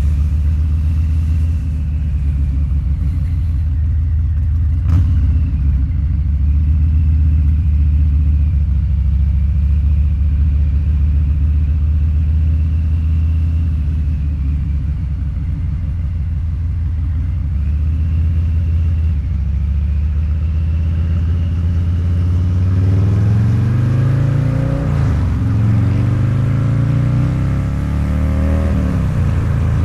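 Harley-Davidson Low Rider's 129-cubic-inch V-twin through a Two Brothers Racing exhaust, running steadily at low revs. In the last several seconds it accelerates: the revs climb, break at a gear change, climb again and then drop off.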